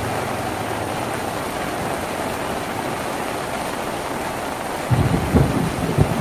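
Steady rain falling on a tin roof, heard as an even hiss of drops. About five seconds in, a run of irregular low thuds starts up over it.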